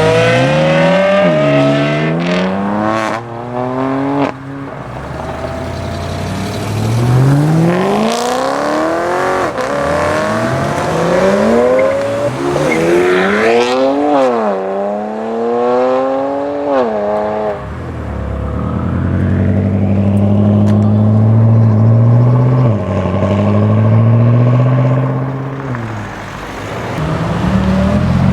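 Modified BMW M cars accelerating hard one after another, engines revving up through the gears with the pitch climbing and dropping back at each upshift. A deeper, steadier engine note takes over in the second half.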